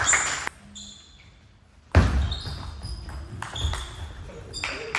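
Table tennis ball clicking off bats and table in a rally, with scattered clicks, low thumps and a few short high squeaks. The sound drops out to near quiet about half a second in and comes back suddenly about two seconds in.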